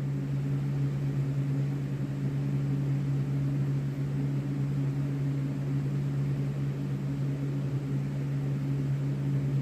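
A steady, unchanging low mechanical hum with a faint hiss over it.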